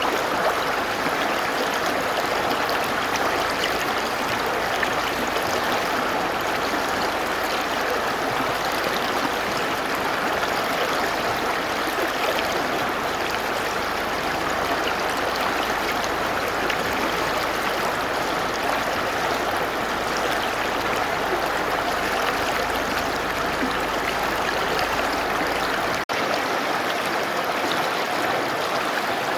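Mountain river running with a steady, even water noise, briefly dipping for an instant near the end.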